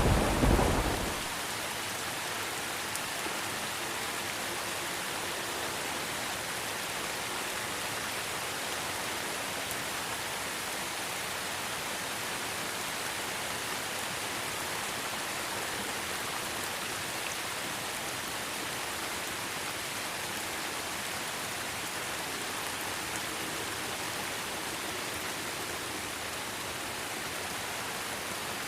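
Steady rain falling in an even hiss. A loud thunder rumble carried over from just before dies away about a second in.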